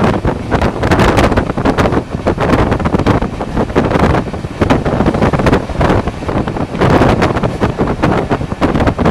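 Moving passenger train heard at an open coach window: steady rushing running noise of the train, with wind buffeting the microphone.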